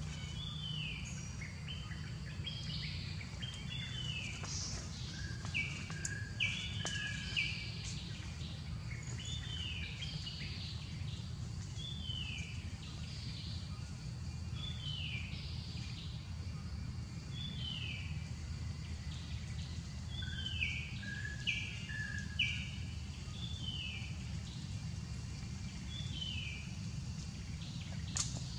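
A bird calling over and over in short falling chirps, about one every one to two seconds, with a few lower notes here and there, over a steady low rumble.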